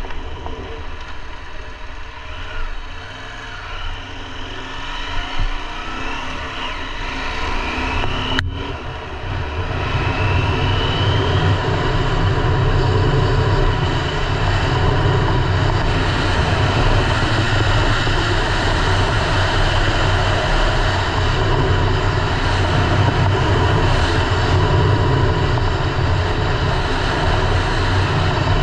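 KTM 890 Adventure R's parallel-twin engine running under way, with wind rush on a bike- or helmet-mounted camera. It is quieter for the first eight seconds; after a sharp click, the engine and wind noise grow louder and then hold steady.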